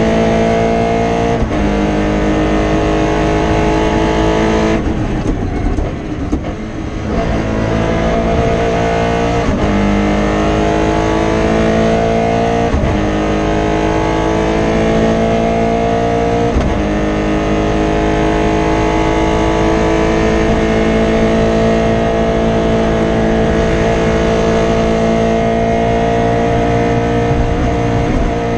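Rally Toyota Starlet's 4AGE 1.6-litre twin-cam four-cylinder heard from inside the car, pulling hard through the gears. The pitch climbs slowly and drops at each upshift, about four times, with a brief lift off the throttle about five seconds in. The engine is misfiring from a broken injector wire.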